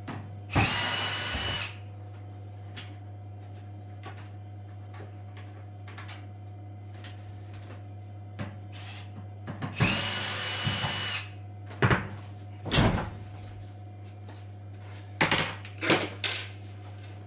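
Cordless drill-driver whining in two short bursts of about a second each, about nine seconds apart, followed by several sharp knocks and clatter of parts, over a steady low hum.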